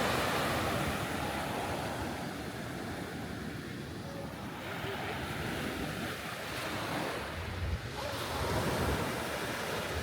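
Ocean surf washing onto a beach, swelling and easing, with wind buffeting the microphone in low rumbles about three-quarters of the way through.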